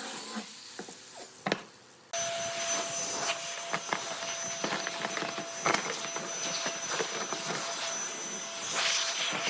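An electric power tool running steadily on wood, with a constant whine and irregular rasping and clicks from the cut. It starts abruptly about two seconds in, after a quieter stretch with one sharp knock.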